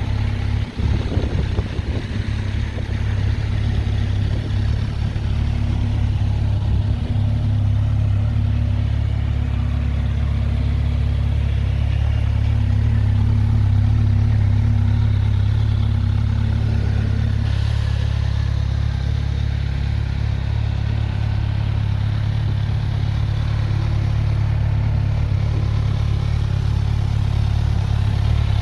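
Kawasaki Z1000SX's inline-four engine idling steadily, with no revving.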